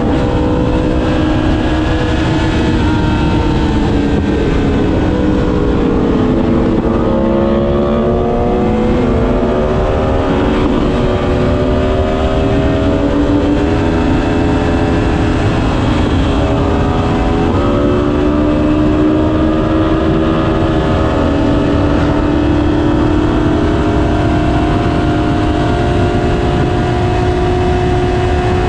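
Yamaha R6 inline-four motorcycle engine heard onboard while riding, its note rising and falling with the throttle over steady wind and road rush.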